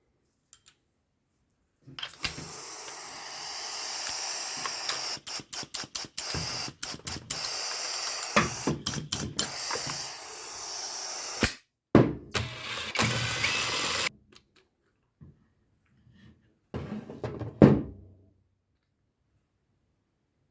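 Compressed air hissing from a pneumatic nail gun, cutting in and out repeatedly, with sharp clicks and knocks. The hiss stops a few seconds before the end, and there is a last short burst of air and knocks.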